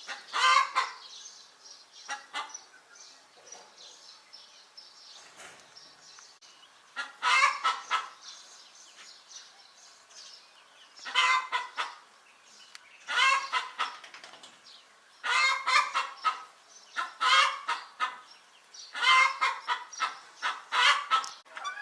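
Chickens squawking in loud harsh bursts every few seconds, with quieter clucking in between.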